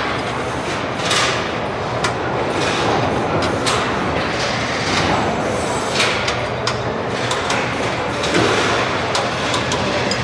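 Truck assembly plant floor noise: a steady factory din with repeated metal clanks and knocks and several short hissing bursts.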